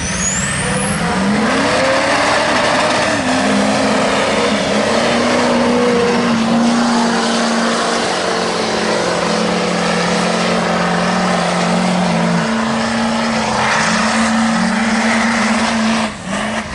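Tuned diesel mega mud truck engines racing at full throttle, their pitch rising about two seconds in and then held high and steady; the loudness briefly dips near the end.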